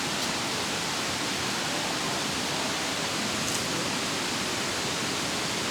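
Mountain valley stream rushing in a steady, even wash of water noise.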